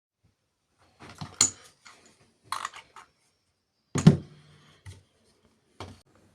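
A few scattered clicks and knocks of hard objects being handled, the loudest a single thunk about four seconds in.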